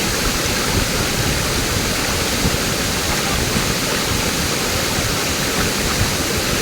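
Waterfall pouring: a steady, loud rush of falling water with no breaks.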